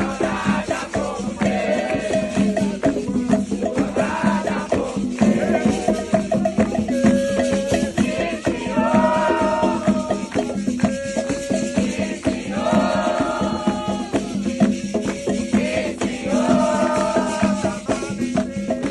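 Candomblé ritual song: voices singing a chant in phrases with short breaks, over the continuous shaking of rattles.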